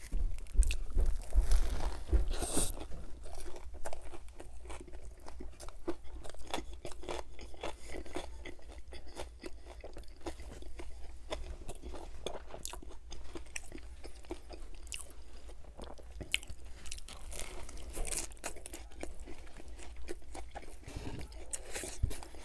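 Close-miked chewing of a chicken club sandwich with bacon on an air-fryer-toasted bun: many small crunches, loudest in the first few seconds, then steady chewing.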